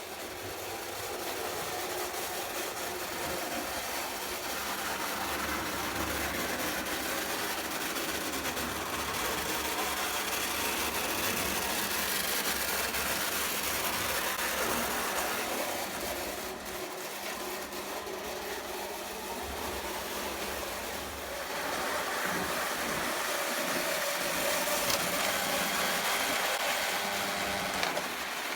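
Lionel O gauge model train running on track, a steady mechanical whirr and rattle that eases for a few seconds about two-thirds of the way through.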